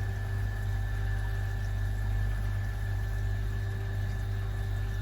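Pond water pump running with a steady low mains hum.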